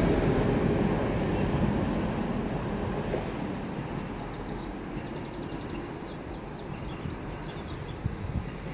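A train moving away after passing, its rumbling, rattling noise fading steadily.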